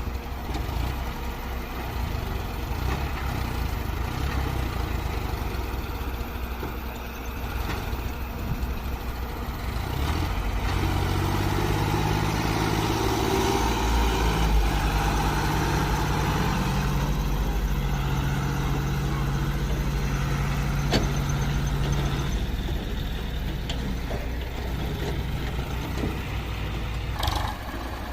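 Tractor diesel engine running under load while hauling a loaded trolley. The engine note grows louder and steadier about ten seconds in, holds for around ten seconds, then eases off.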